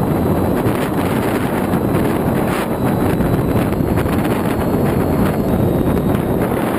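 Steady rush of airflow buffeting the microphone of a GoPro carried aloft on an FX-61 flying-wing model aircraft in flight, with a faint high whine.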